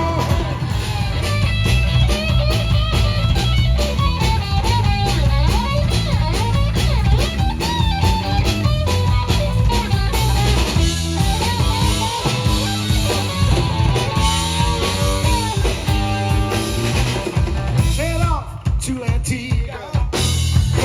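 Live band playing an instrumental break on drum kit and guitars, with a melody line over a steady beat. The band thins out briefly near the end before the next verse.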